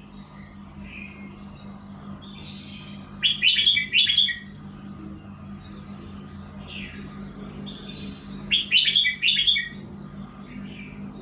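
Red-whiskered bulbul singing: two loud, rapid song phrases, one about a third of the way in and one near the end, with softer single calls between them. A steady low hum runs underneath.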